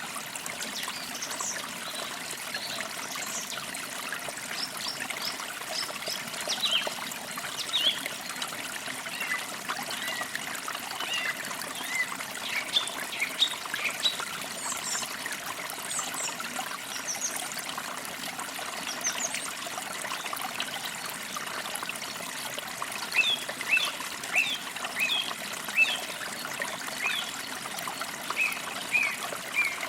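Forest creek trickling steadily, with birds chirping in short, high calls scattered throughout and a busier run of chirps about three-quarters of the way through.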